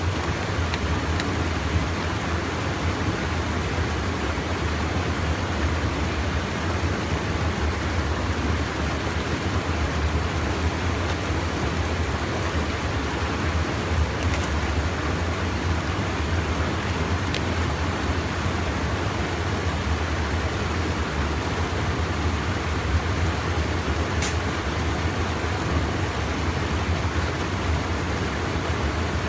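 Steady rushing of a stream pouring over a small check dam, an even roar with no breaks.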